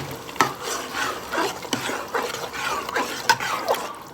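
Spoon stirring and scraping in a pot of stew, with a few sharp knocks against the pot.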